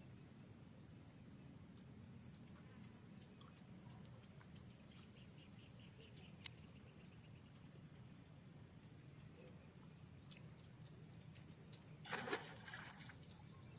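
Faint, steady high-pitched chirring of insects, pulsing about twice a second. About twelve seconds in, a brief louder cry cuts through.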